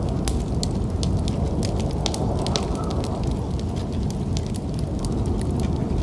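Wood fire burning in a fireplace: a steady low rumble with irregular sharp crackles and pops, several a second.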